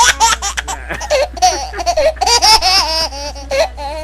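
A child laughing hard, in a long run of quick high-pitched bursts of laughter, over a steady low hum.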